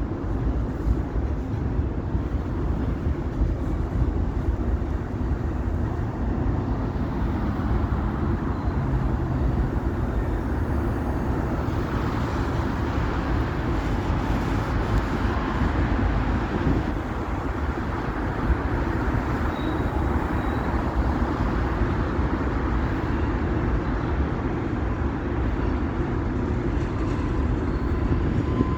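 Train running: a steady rumble and rush of wheels on the rails, even in level throughout.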